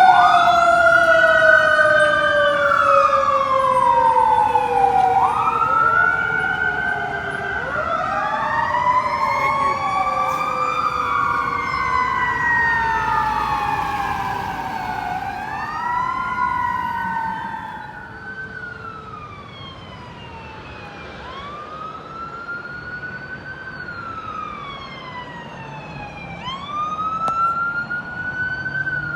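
Several fire truck sirens wailing together, their slow rises and falls overlapping. About eighteen seconds in they grow quieter, leaving mainly a single wail.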